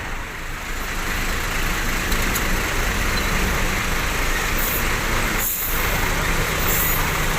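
Bus engine running steadily, with three short hisses of air from the air brakes about two-thirds of the way in.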